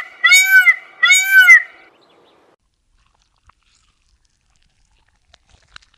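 An animal's high calls repeated about every half second, each one rising and then falling in pitch; the last ends about a second and a half in. Then near silence, with a few faint clicks near the end.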